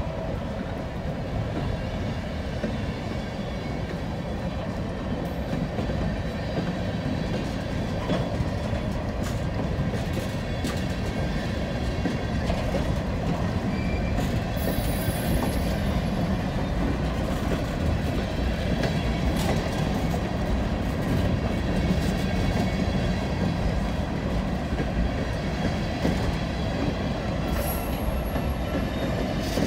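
Freight train of open-top hopper cars rolling past at close range: a steady rumble of steel wheels on rail with clicks over the joints. Thin high wheel squeals come in briefly about halfway through and again near the end.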